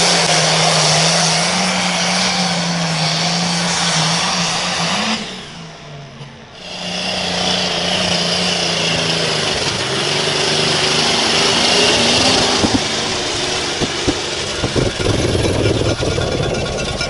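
Pulling vehicle's engine running hard and loud at high revs. Its sound drops out sharply for about a second and a half around five seconds in, then returns. Scattered sharp pops come near the end.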